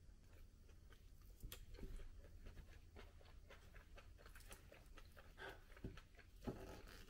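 Faint close-up chewing of a vegetable pancake, with a few soft clicks and knocks of chopsticks against a plate.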